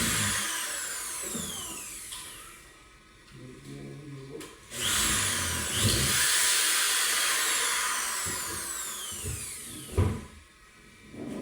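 A high-speed handheld power tool run in two short bursts, its motor whine falling in pitch as it spins down after each one; a sharp knock near the end.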